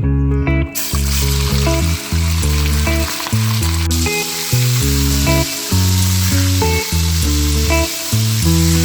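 Food sizzling as it fries in a hot pan, a steady hiss that starts about a second in, over background music with a steady bass line.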